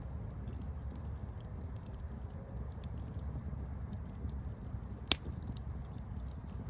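Campfire burning: a steady low rumble with scattered faint crackles, and one sharp, loud pop about five seconds in.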